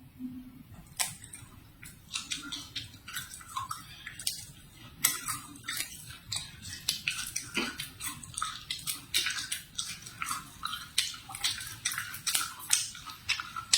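Close-miked chewing and biting of crisp food: a dense, irregular run of crunchy crackles.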